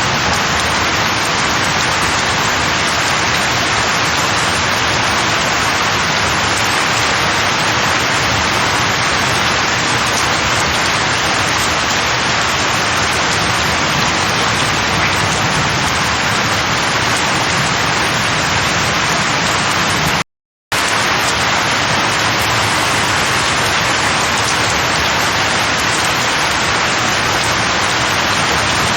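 Steady rain falling on tree leaves, an even hiss with no thunder. It drops out to silence for about half a second, about two-thirds of the way through.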